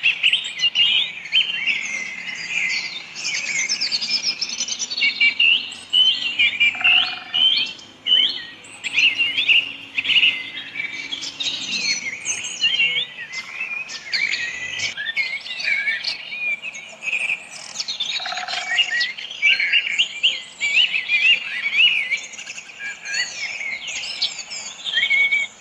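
A flock of small birds chirping and twittering, with many quick, high calls overlapping without a break.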